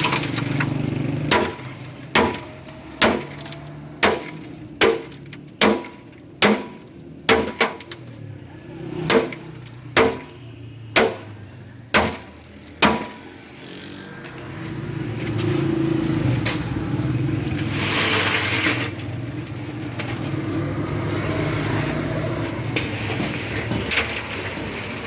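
Hammer blows during a water-heater repair: about fifteen evenly spaced strikes, a little under one a second, each with a short ring. After them, over the second half, a steady rumbling background noise.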